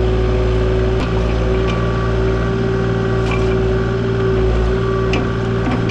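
Diesel engine of a compact construction machine running at a steady speed, with a few faint clicks over it.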